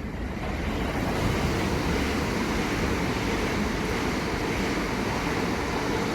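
A pair of coupled Class 375 Electrostar electric multiple units passing through at speed: a steady rush of wheels on rail and moving air that swells about half a second in and starts to ease off near the end.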